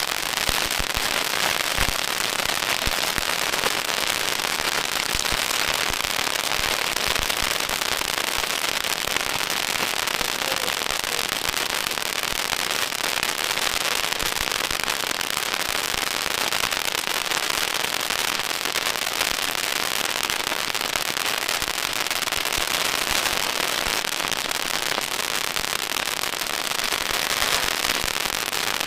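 Strings of firecrackers going off without a break: a dense, steady crackle of rapid bangs.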